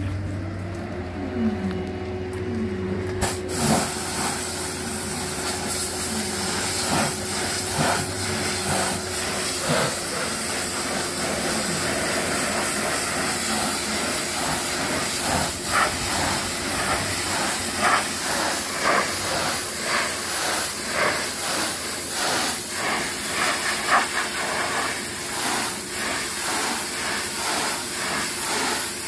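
A loud, steady hiss of spraying starts suddenly about three seconds in, over a steady machine hum, with scattered short knocks.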